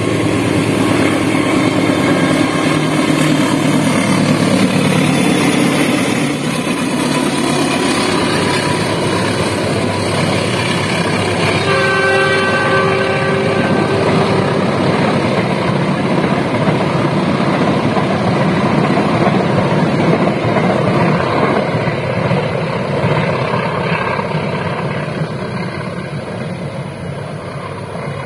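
Diesel locomotive of a passenger train running past with its engine working, then the rumble and clatter of the carriages on the rails, fading near the end. A brief train horn sounds about twelve seconds in.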